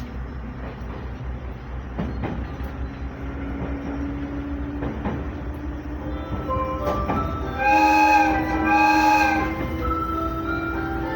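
Sangi Railway 5000 series electric train running, its motor hum slowly rising in pitch, with rail-joint clicks under it. About eight seconds in it sounds its horn twice, two short blasts.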